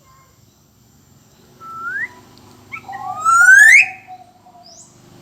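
Black-naped oriole (kepodang emas) giving fluty whistles: a short rising note, then a longer, louder rising whistle about three seconds in with a lower sliding note under it, and a brief high note near the end.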